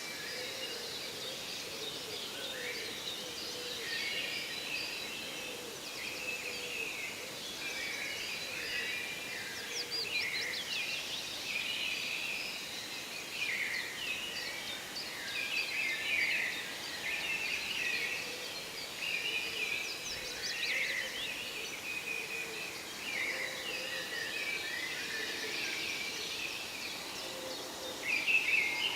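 Many songbirds singing and calling at once in a forest: a dense, continuous chorus of overlapping chirps and trills, with one louder call near the end.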